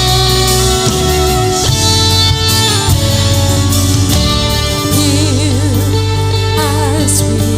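Worship band music led by guitars over a steady bass, with a held, wavering melody line in the second half.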